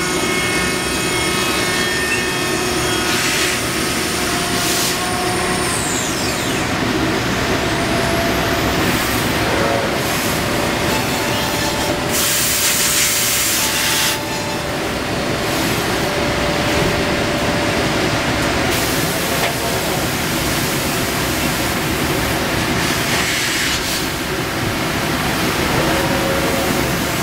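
CNC router milling wood: loud, continuous machining noise with a high whine that glides in pitch a few times, and a stretch of brighter hissing about halfway through.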